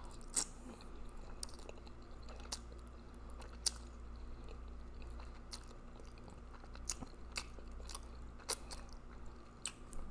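Close-miked chewing of a mouthful of spaghetti with meat sauce, with a dozen or so short sharp mouth clicks and smacks scattered through it.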